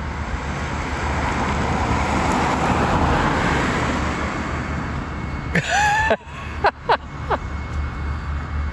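A car passing on the street, its road noise swelling to a peak a few seconds in and then fading. Near the end comes a short high call and a few quick sharp chirps.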